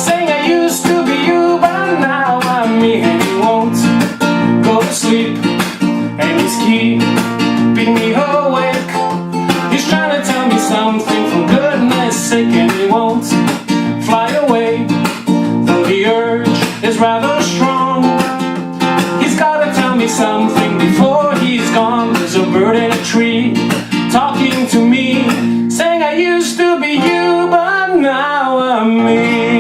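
Acoustic guitar strummed in a steady rhythm, with a voice singing over it. The strumming stops a few seconds before the end, leaving the chord ringing under the voice.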